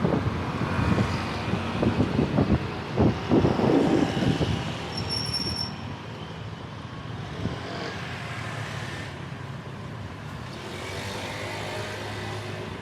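Road traffic with wind buffeting the microphone, heavier in the first few seconds and then steadier, with a brief high-pitched squeal about five seconds in.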